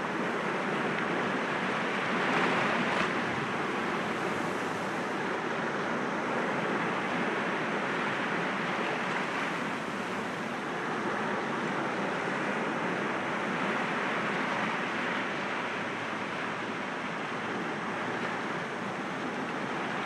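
Sea waves breaking gently against rocks, a continuous wash of surf with a slightly louder wave about two to three seconds in.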